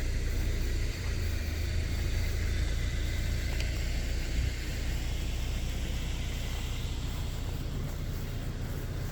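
A steady low rumble of a motor vehicle engine running at idle.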